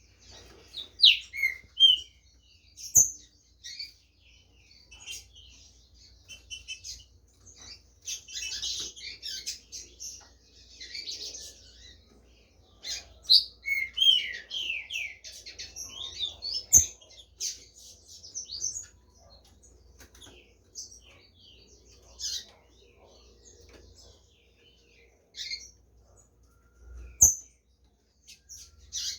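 Green-winged saltators (trinca-ferros) calling and singing in rapid bursts of chirps and quick falling notes, interrupted by three sharp knocks.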